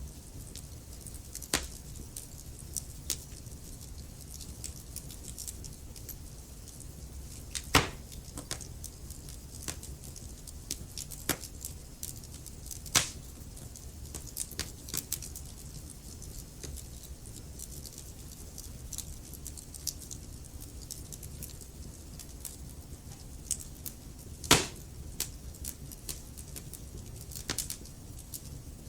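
Wood fire crackling in a fireplace: irregular sharp pops and snaps over a low, steady rumble, with three pops louder than the rest.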